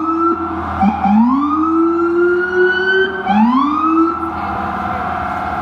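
Emergency vehicle siren, which the walker takes for an ambulance trying to get through stalled traffic: three rising wails, then from about four seconds in a fast warbling yelp.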